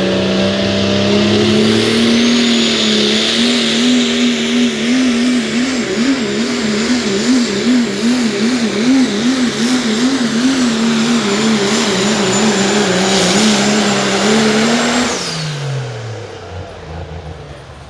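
Limited Pro diesel pulling truck running flat out down the track, its engine pitch surging up and down about twice a second partway through, with a high steady turbocharger whistle over it. About fifteen seconds in, the driver lifts off and the engine pitch falls away as the run ends.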